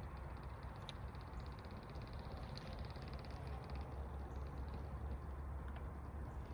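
Outdoor ambience dominated by a low wind rumble on the microphone. A faint, rapid, evenly spaced ticking runs for about three seconds from about a second in.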